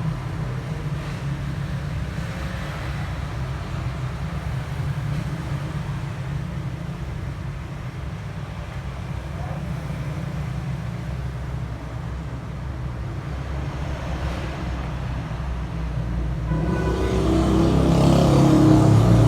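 A motor vehicle's engine rumbling steadily, growing louder over the last few seconds.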